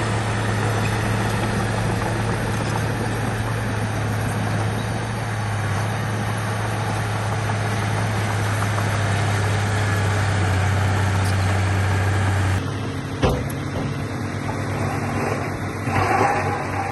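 Heavy diesel engine of earthmoving equipment running steadily with a deep hum. About twelve seconds in, the sound changes abruptly to a lighter, less steady machine noise, with a single sharp knock just after.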